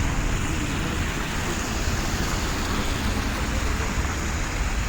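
Steady rush of blizzard wind on the microphone, with a low buffeting rumble.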